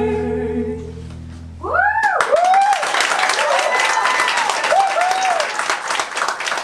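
The final held chord of a sung number fades out, and about two seconds in an audience breaks into clapping and cheering with whoops that carries on to the end.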